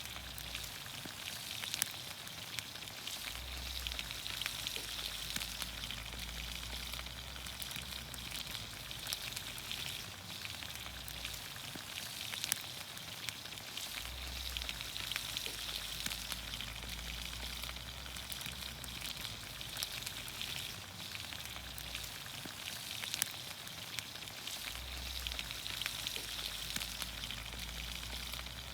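Vegetables sizzling in olive oil in a pan over a campfire: a steady frying hiss with many small pops and crackles and an occasional sharper pop.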